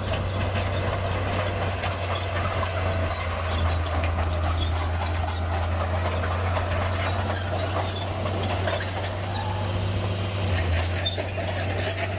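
Heavy diesel earthmoving machinery running steadily: a constant low engine drone with a wavering mid-pitched whine and scattered light clicks and rattles.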